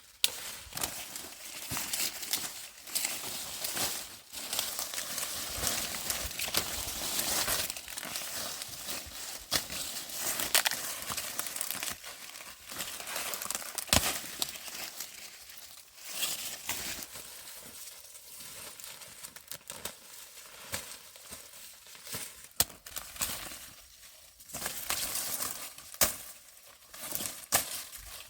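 Dry corn leaves and husks rustling and crackling as corn is picked by hand, with frequent sharp cracks.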